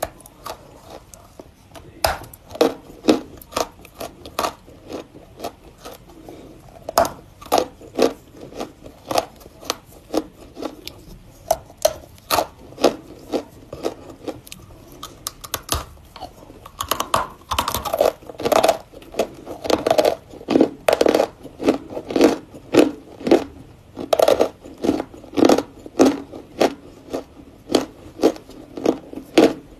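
Close-up biting and chewing of lumps of edible Volokonovka chalk: sharp dry crackles and crunches, about one to two a second, coming thicker in the second half.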